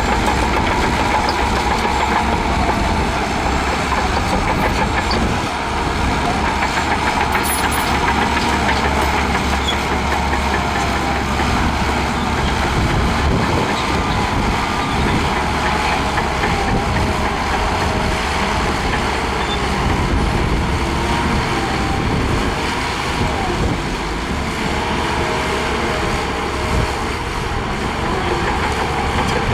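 Heavy diesel engine of earthmoving machinery running steadily at a constant level, with no revving up or down.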